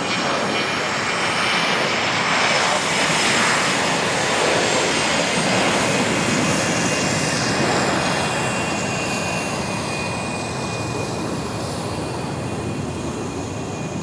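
Jet aircraft passing close by: a broad engine roar that builds over the first couple of seconds, is loudest through the middle and eases toward the end, with thin high turbine whines running through it.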